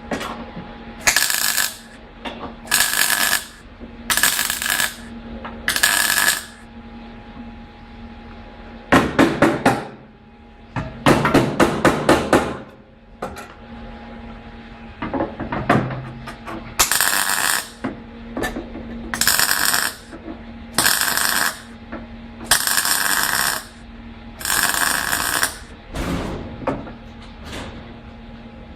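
Metalwork on a van: a series of short hissing bursts about two seconds apart, broken by quick runs of hammer blows on metal, over a faint steady hum.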